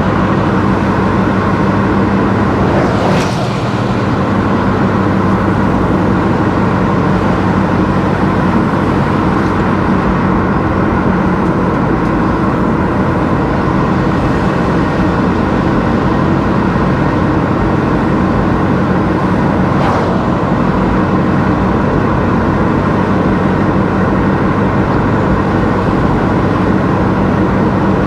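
Car driving along a road: steady engine drone and tyre and road noise, with two brief swishes, one about three seconds in and one about two-thirds of the way through.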